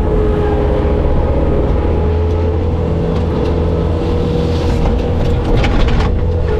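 Bobcat skid steer's diesel engine running steadily, with a few short rattles about five and a half to six seconds in.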